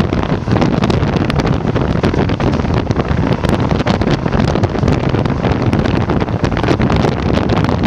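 Wind buffeting the microphone at the open window of a moving passenger train, over the steady rumble of its wheels on the rails.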